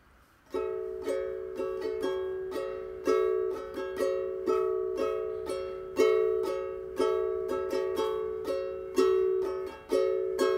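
Ukulele playing a repeating chord pattern in a steady rhythm of strummed and plucked strokes, starting about half a second in.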